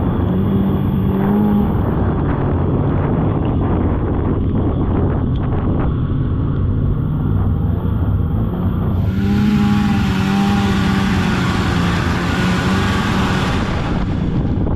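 Polaris snowmobile engine running along a trail, its pitch rising and falling with the throttle, with wind on the microphone. A rushing hiss joins about two-thirds of the way in and stops near the end.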